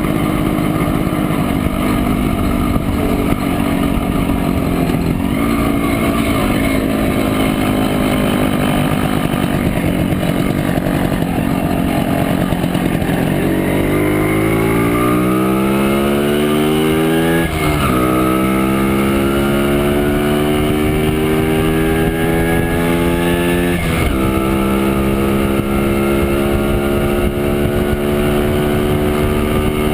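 Montesa Impala Comando 175's two-stroke single-cylinder engine running under way, heard from on board. It runs steady at first, then from about halfway it accelerates with the pitch rising, dipping briefly twice as it changes up before climbing again.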